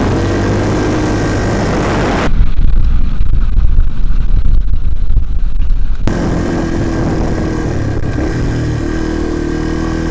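Dirt bike engine running under way, its pitch rising and falling as the throttle opens and closes through the shifts. From about two seconds in to about six seconds, a louder, muffled low rumble covers it.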